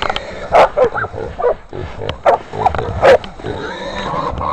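Hunting dogs barking at a caught wild hog, with the hog squealing: a string of about five loud, short cries.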